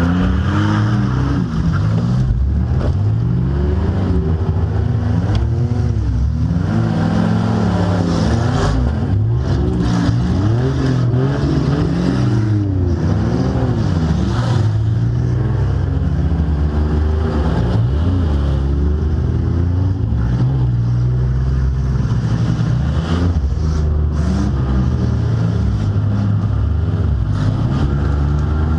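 Demolition derby car's engine revving up and down over and over, heard from inside the car.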